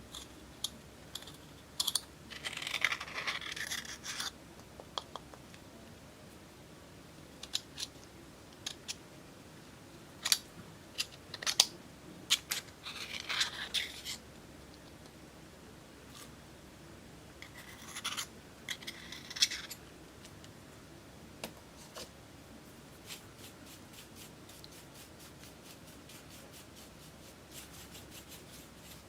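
Slime being worked by hand, with bursts of sticky crackling and clicking pops and a run of quick small clicks near the end.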